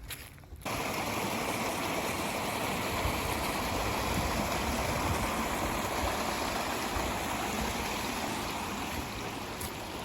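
Stream water rushing steadily, starting abruptly under a second in.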